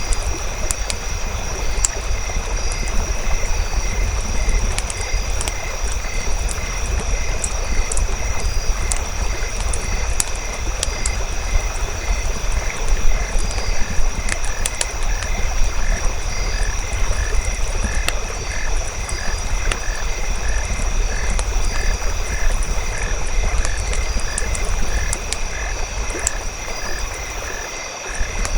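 Night ambience of frogs calling in a steady rhythmic chorus, about three pulses a second, over a constant high-pitched drone. Campfire crackling runs beneath it as scattered sharp pops, with a low rumble underneath.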